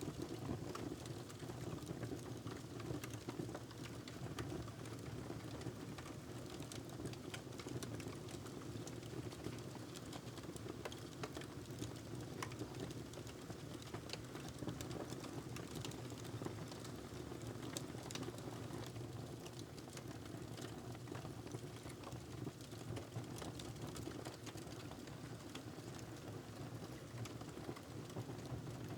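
Wood fire crackling in a fireplace: a steady low rumble of burning with many small, sharp pops and snaps throughout.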